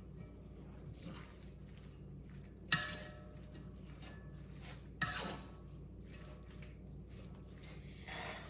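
Two light clinks in the kitchen, about two and a half seconds apart, each with a short ringing tone, over a steady low hum, as Italian seasoning is added to spaghetti in a pot.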